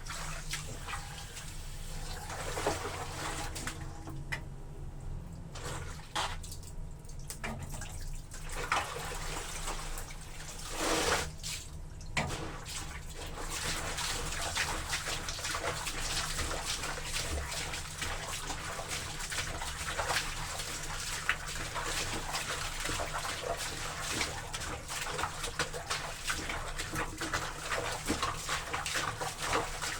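Water sloshing and splashing in a tub as laundry is trodden underfoot, with many small splashes in quick succession.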